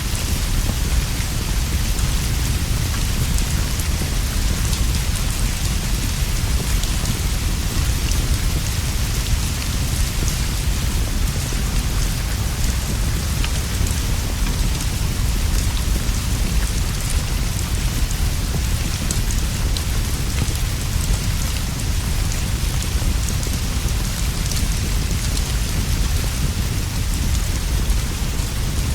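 Steady rain falling on leaves and a roof, with a constant low rumble underneath and fine scattered drip ticks.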